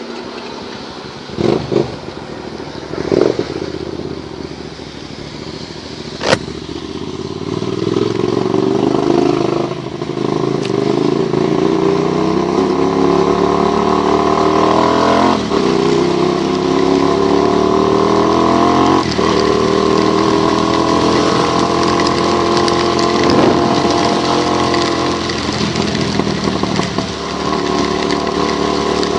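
Motorcycle engine blipped twice, then pulling away and accelerating through the gears, its pitch climbing and dropping back at each of three shifts, over a steady hiss.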